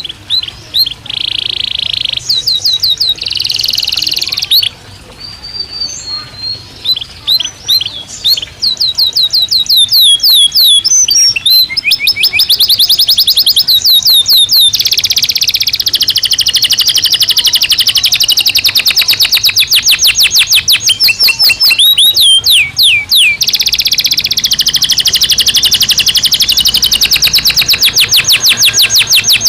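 Domestic canary singing: varied short phrases and held notes at first, then long, rapid trills of many quick repeated notes from about nine seconds in.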